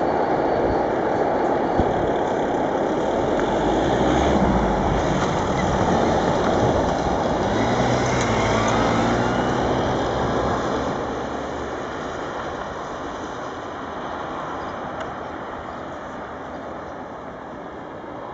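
Freight train of covered hopper wagons rolling away on the rails, a steady rumble of wheels on track that fades from about eleven seconds in as the train draws off.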